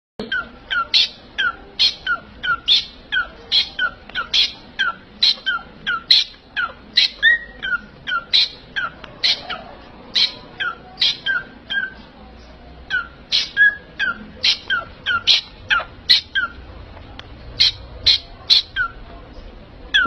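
A pet parrot giving a long series of short, sharp calls, about two a second, each falling steeply in pitch, with a couple of brief pauses.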